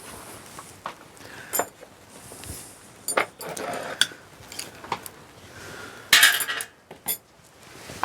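Metal hand tools clinking and tapping against the engine's valve gear while the valve clearances are adjusted: scattered sharp clicks and knocks, with a louder rattling scrape about six seconds in.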